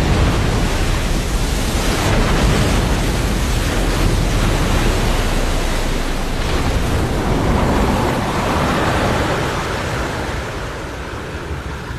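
Loud, steady rushing of water and spray as an airliner skids across the river surface after ditching, easing off toward the end.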